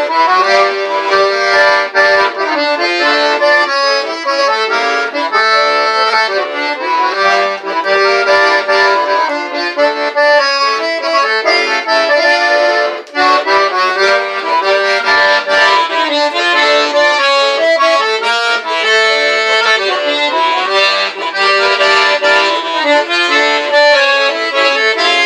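Accordion playing an instrumental passage of melody over chords, with a brief break about thirteen seconds in.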